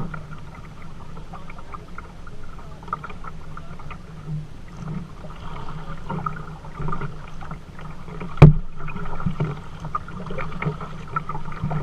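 Kayak being paddled along a river: water splashing and lapping at the hull with small scattered knocks, and one sharp knock about eight and a half seconds in.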